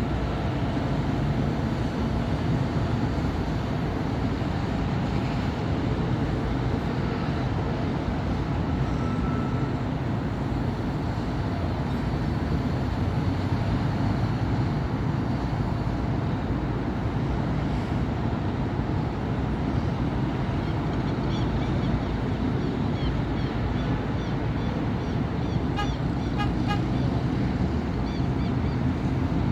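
Steady city street traffic: the continuous low rumble of passing cars and buses. Near the end come a few short, high toots.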